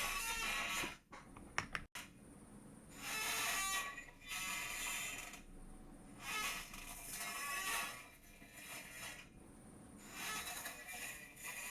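A chair creaking and squeaking as it is rocked or shifted, in repeated drawn-out creaks about every three seconds, with a short click about two seconds in.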